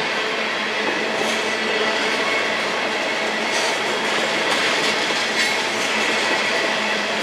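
Freight train rolling past, a steady rumble and hiss of steel wheels on the rails with a few faint clacks.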